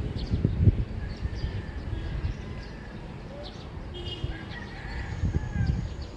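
Early-morning neighbourhood ambience: birds chirping here and there, with low gusts of wind buffeting the microphone near the start and again around five seconds in.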